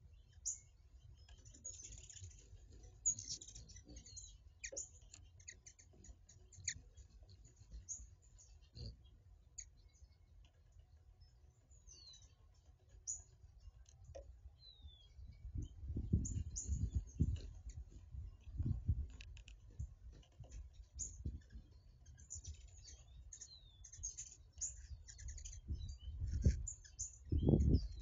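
Small songbirds chirping and calling throughout, mostly short high chirps with a few quick falling whistles. Low-pitched bumps and rumbles come through in the second half, the loudest just before the end.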